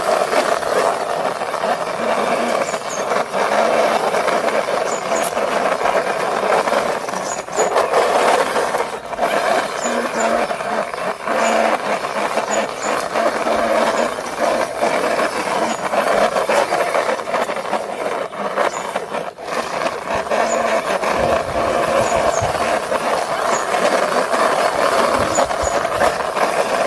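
Toy police car pushed along the ground by hand, its wheels rolling and rattling in a steady, unbroken noise.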